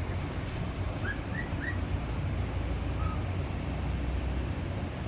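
Pet parrot giving three quick short rising chirps in a row, then a single softer chirp a little later.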